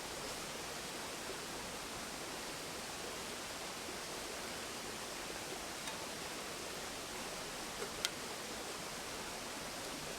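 Mountain stream rushing and babbling steadily over rocks. One sharp click about eight seconds in.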